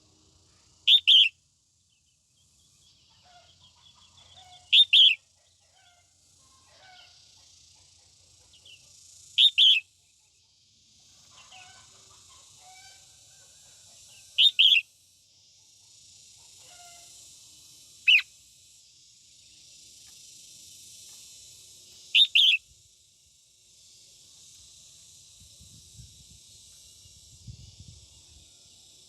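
Female red-whiskered bulbul calling: six loud, short double notes, spaced about four to five seconds apart, over a faint steady high hiss.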